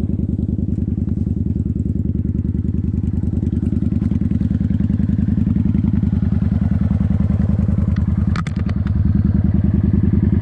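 Bobber motorcycle engine running steadily under way, its firing pulses heard close up, with a short sharp click and a slight dip in level about eight seconds in.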